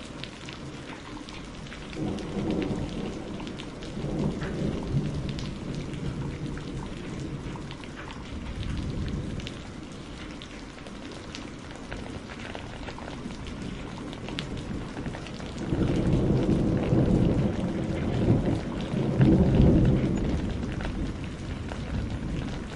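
Steady rain falling with rolls of thunder: a rumble about two seconds in, and a longer, louder one through most of the second half.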